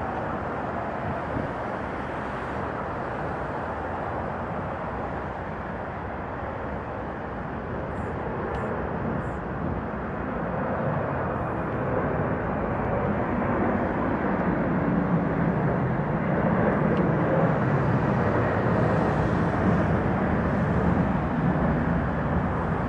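Boeing 767's twin jet engines at take-off power, a steady rushing noise that grows louder from about halfway through, with a deeper rumble coming up.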